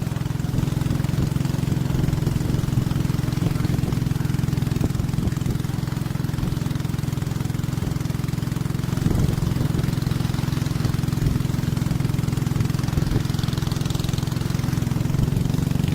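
Boat engine running at a steady drone while the boat is under way.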